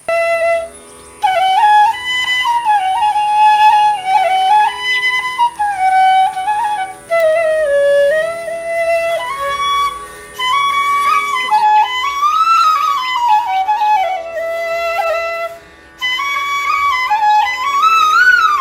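Background music: a flute playing a slow melody with gliding notes over a steady drone.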